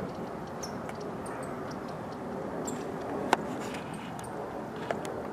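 Steady outdoor background noise with scattered short, high bird chirps, and a sharp click about three seconds in.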